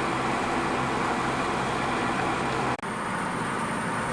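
Steady road and engine noise of a moving car, heard from inside. It breaks off for an instant about two-thirds of the way through, and the low hum changes after the break.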